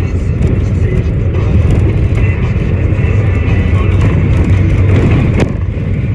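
Truck engine and road noise heard while driving, a steady low rumble, with a sharp click about five and a half seconds in.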